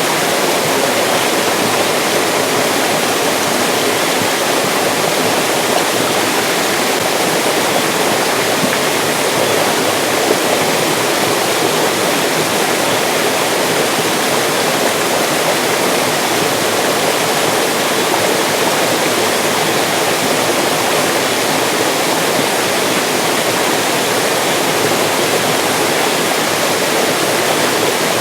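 Mountain stream rushing over rocks, a steady, even splashing with no breaks.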